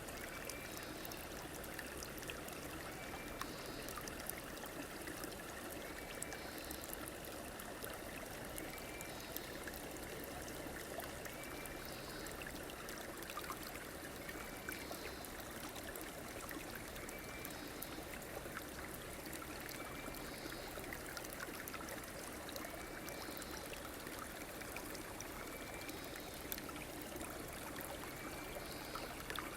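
River water flowing steadily, with a faint short high sound repeating about every three seconds.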